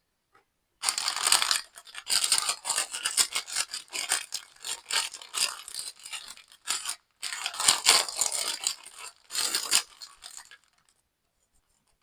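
Toy kit packaging being handled and opened: a long run of crackly rustling and tearing with many quick sharp crinkles, pausing briefly about seven seconds in and stopping a little before the end.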